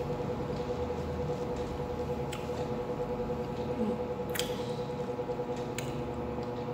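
Close-miked wet chewing and mouth sounds from eating, with a few sharp clicks, over a steady background hum.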